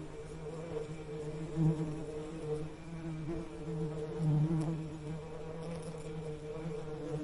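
Bee buzzing steadily, a low hum with overtones that swells louder twice, about one and a half and about four and a half seconds in.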